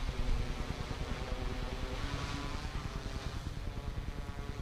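Quadcopter drone's electric motors and propellers humming steadily in flight, the pitch shifting slightly, with wind rumbling on the microphone.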